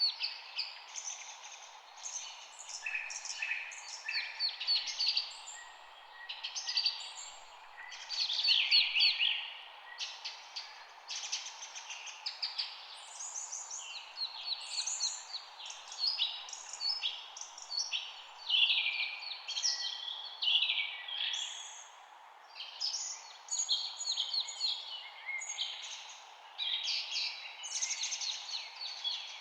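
Several songbirds chirping and trilling, with many short, quick calls overlapping throughout, over a steady background hiss.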